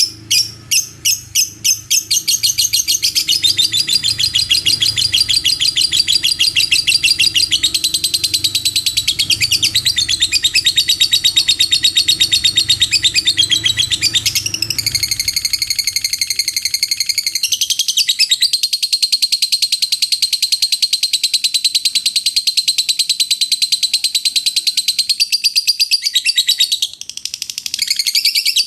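Lovebird singing a long 'ngekek': a fast, unbroken high-pitched chattering trill. It opens with a few separate chirps in the first couple of seconds.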